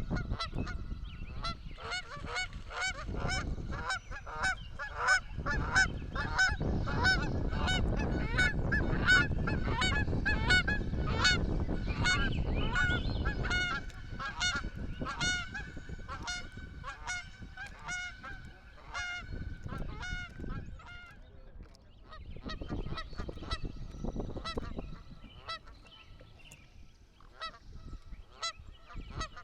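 A flock of geese honking, many overlapping calls several times a second, thinning out to scattered calls in the last third. A low rumble sits under the calls in the middle stretch.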